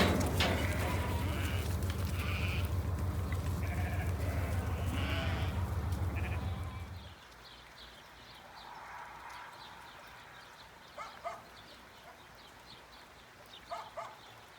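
Sheep bleating over a steady low rumble. The rumble stops abruptly about seven seconds in, and a few fainter bleats follow.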